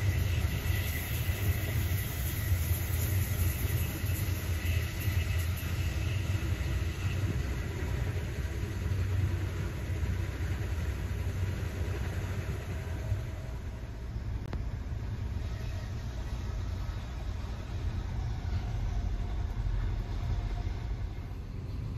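Steady running noise of a train, heard from inside a couchette sleeping car travelling at speed: a continuous low rumble of the wheels on the rails, its hiss easing a little about halfway through.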